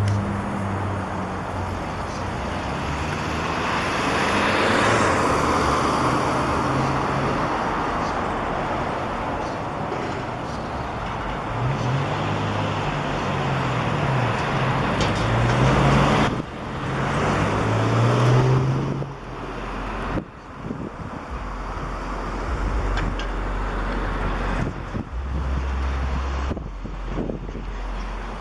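Road traffic: vehicles passing, one swelling loudest about five seconds in. Later a vehicle's low engine hum rises and falls in pitch several times.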